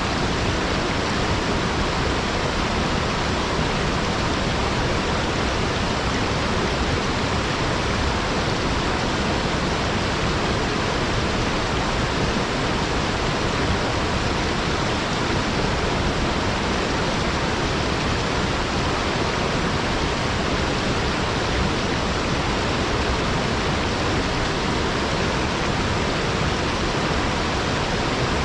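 Small waterfall spilling down a rock wall: a steady, even rush of falling water.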